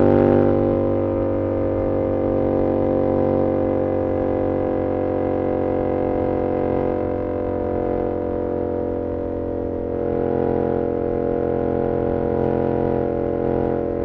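Yamaha R7's 689 cc crossplane parallel-twin engine through an SC-Project CR-T exhaust, running at a steady engine speed while cruising, with a steady drone. It eases off slightly just after the start and dips briefly near the end.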